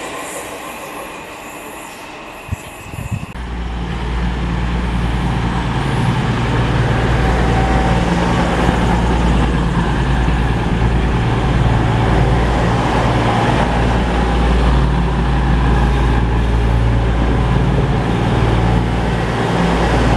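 A Class 360 Desiro electric unit's running noise fading as it pulls away, with a sharp click about two and a half seconds in. From about three seconds in, the Class 222 Meridian diesel multiple unit's engines give a loud, steady low rumble.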